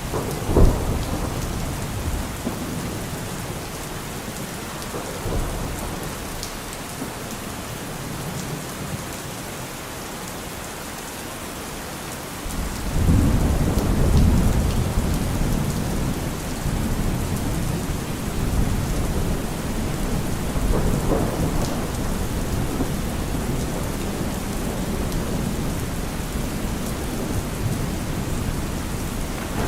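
Steady heavy rain with thunder: a sharp crack just under a second in, then about twelve seconds in a deep rumble breaks out suddenly and keeps rolling, swelling again several times.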